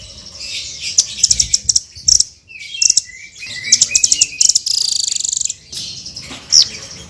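Blue-crowned hanging parrot (serindit) calling in rapid bursts of high, sharp chirps, with a long trill about five seconds in and a sharp rising note near the end.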